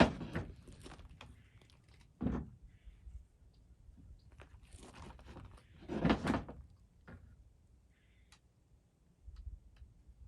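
Chainsaw bar, chain and side cover being handled and fitted by hand. Several clunks and knocks a few seconds apart, loudest at the start and about six seconds in, with small clicks in between.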